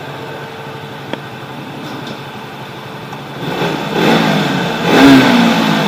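Motorcycle engine running in a narrow alley, picking up revs and getting louder about halfway through, then easing off just before the end.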